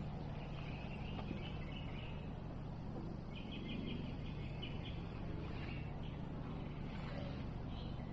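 Birds chirping over a steady low hum, with a quick run of chirps about halfway through.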